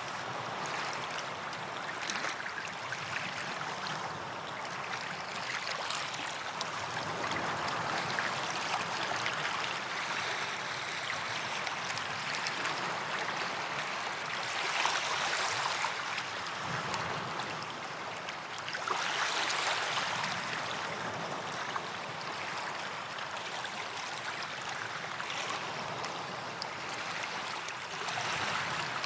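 Small waves washing onto a sandy beach: a steady hiss of moving water that swells as waves break, most strongly about fifteen and twenty seconds in and again near the end.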